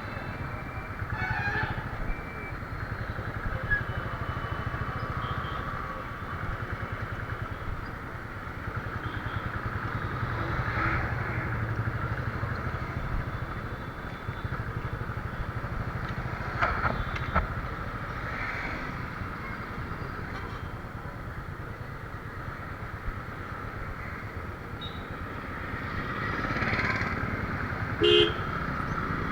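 Motorcycle engine running at road speed under the rider, with road and traffic noise around it and a brief horn toot near the end.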